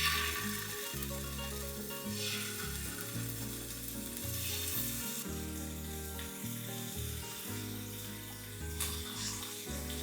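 Food sizzling in hot oil in a frying pan, starting suddenly, with a few brief louder swells of sizzle as it is stirred. Background music plays underneath.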